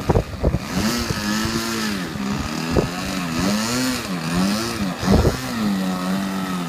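A radio-controlled model airplane's engine drones in flight, its pitch swinging up and down again and again. Gusty wind buffets the microphone, with a few low thumps.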